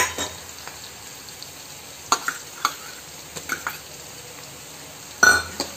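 Sliced onions frying and sizzling steadily in hot oil in a kadhai. A steel ladle stirs them, clicking and scraping against the pan now and then, with a louder clatter near the end.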